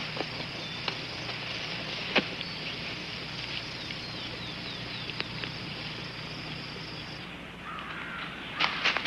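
Outdoor ambience under a steady hiss: a small bird gives a short series of faint falling chirps, with a few sharp clicks scattered through and a cluster of clicks near the end.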